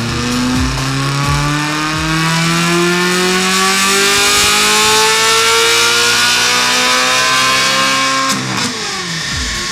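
Ferrari California's V8 breathing through a Capristo aftermarket exhaust, revving up in one long steady pull for about eight seconds before the revs drop away sharply as the throttle closes.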